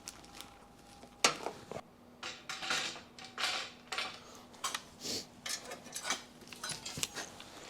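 Scattered metal clinks and knocks of tools and loose parts being handled during car disassembly, with the sharpest knock a little over a second in, over a faint steady hum.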